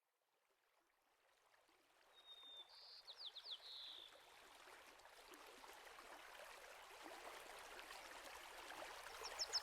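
A faint, even rush of running water fades in out of silence. Over it a songbird sings a short phrase of quick, high, down-slurred notes, once a couple of seconds in and again at the very end.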